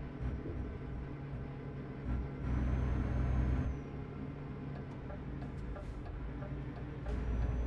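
Truck engine running, heard from inside the cab as a steady low hum. It grows louder twice, about two seconds in and again near the end, each time with a high whine that rises and then holds.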